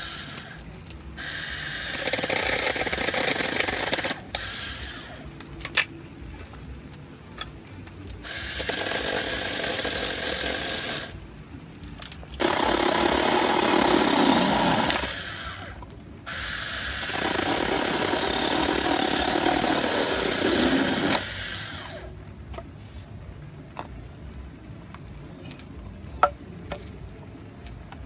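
Heavy rain and wind on a tent, a dense rushing and drumming that comes and goes in loud stretches several seconds long, with abrupt starts and stops.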